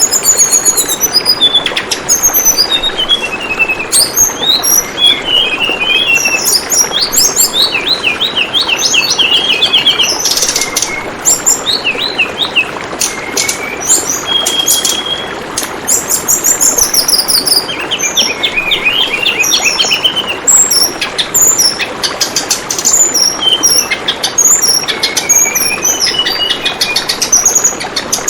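Tledekan bambu songbird calling over and over in quick high chirps and short trills, over the steady babble of flowing water.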